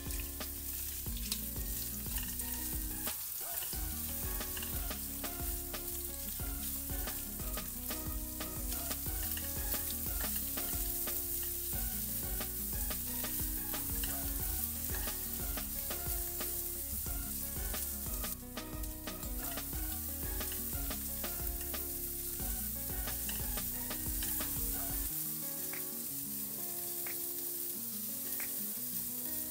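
Shrimp sizzling as they fry in hot oil in a nonstick wok, stirred and turned with a silicone spatula.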